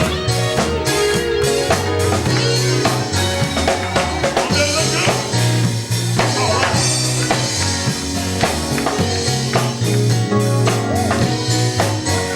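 Live gospel band playing: a bass guitar line and drum kit keep a steady beat under electric guitar, with some vocals.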